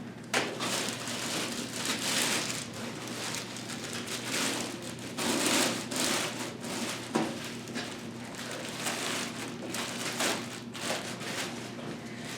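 Handling noises from a PC case: ongoing rustling with scattered light clicks and knocks.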